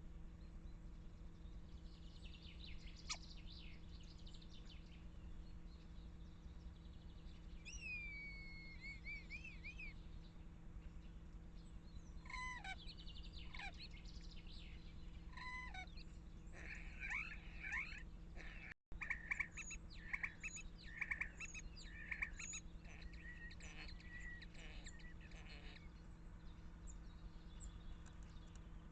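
Common starling singing: a varied run of whistles, one falling whistle, then clicks and rattles and, in the second half, buzzy chattering phrases.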